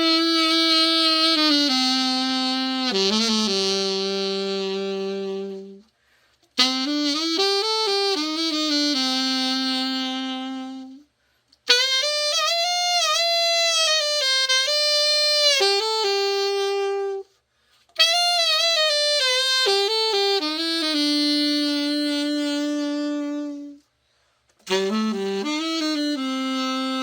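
Yamaha YAS-62 alto saxophone, freshly overhauled, played solo: a slow melody in five phrases, each settling on a long held note, with short breaths between.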